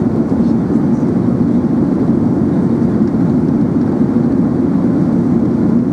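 Steady cabin noise inside an Airbus A380 in flight: a low, even rumble of engines and airflow.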